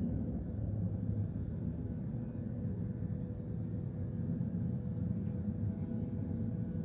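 Steady low rumble of distant engine noise carrying a faint steady hum, with a few faint high chirps in the middle.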